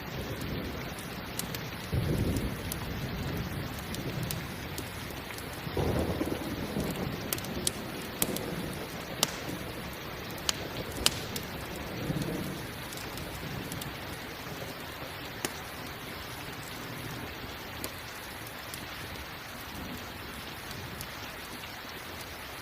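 Steady rain with low rolls of thunder swelling about two and six seconds in. A campfire crackles through it, with a few sharp pops between about seven and eleven seconds.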